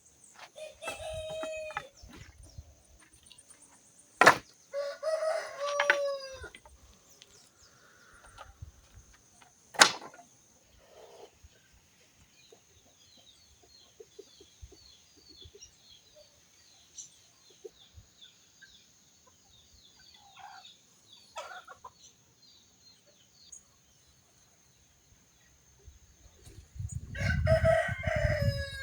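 A rooster crowing three times: near the start, about five seconds in, and again near the end. Two loud sharp cracks fall in between, and a steady high-pitched whine runs underneath.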